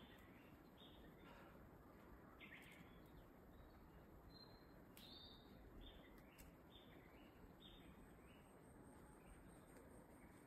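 Faint bird calls: a run of short, high chirps repeating every half second or so, over a steady low hiss of outdoor background noise, with a few faint clicks.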